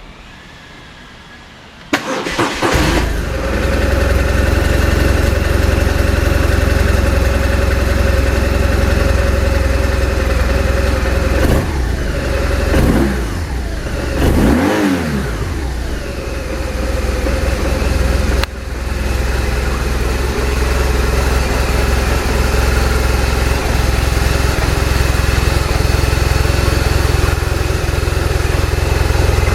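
BMW R1200RT's boxer-twin engine starting about two seconds in and settling into a steady idle, with a couple of short revs in the middle that rise and fall in pitch.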